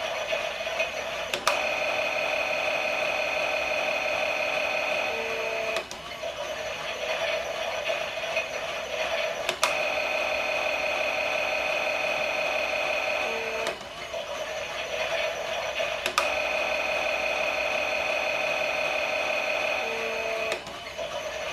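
Battery-powered toy Miele washing machine running its pretend wash cycle: a small motor whirring with a steady electronic hum. The sound shifts every four seconds or so, and each shift is marked by a click.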